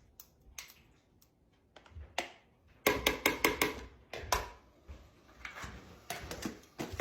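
A kitchen utensil knocking and scraping against a dish as leftover chili is spooned into mashed potato filling. Sharp knocks come in a quick run of about five halfway through, then scattered taps.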